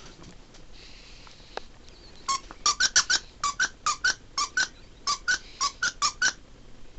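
A squeaky dog toy squeaked over and over as a dog chews it: about sixteen short, sharp squeaks in quick succession, roughly four a second, starting about two seconds in.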